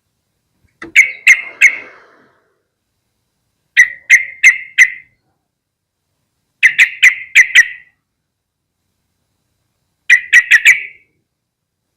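Yellow-vented bulbul calling: four short bursts of three or four sharp, chattering notes, one about every three seconds.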